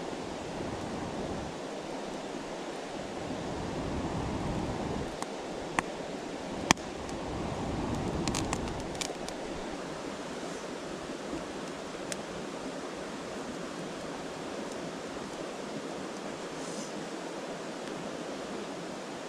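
Steady rush of a flowing river, with a newly lit campfire crackling: a few sharp pops, the loudest about seven seconds in.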